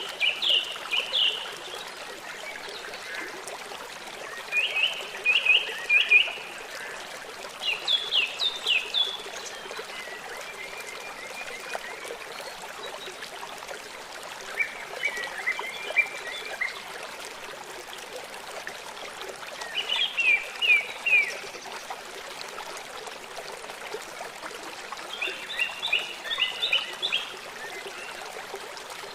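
Water trickling and running in a stream as a steady rush, with a songbird calling in short bursts of quick high notes, about seven phrases spaced a few seconds apart.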